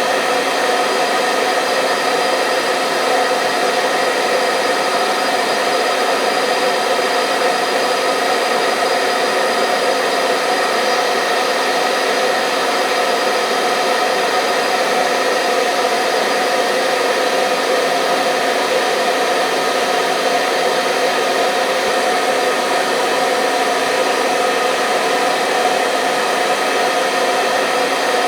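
Hair dryer running steadily: an even, unbroken blowing noise with a steady motor hum, processed with an '8D' audio effect.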